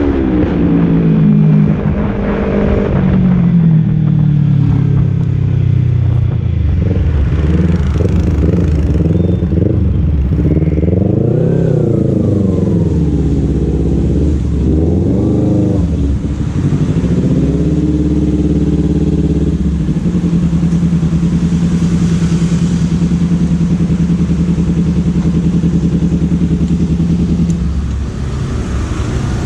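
Kawasaki Z250's parallel-twin engine running through a Leovince Cobra aftermarket exhaust. The revs fall near the start, climb and drop twice in the middle, then hold steady before easing off near the end.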